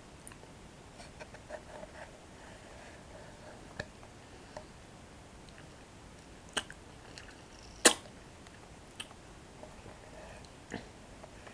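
Close-miked eating sounds from toasted bread sticks with cocoa cream: scattered sharp, crisp snaps, the loudest about eight seconds in, with faint wet mouth sounds between them.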